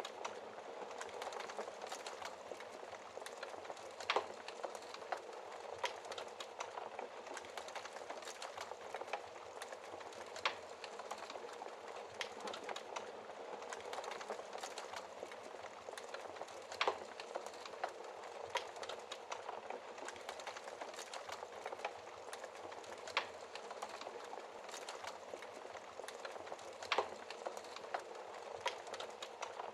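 Wood fire crackling in a fireplace: a steady hiss of flame with constant small crackles and occasional sharper pops.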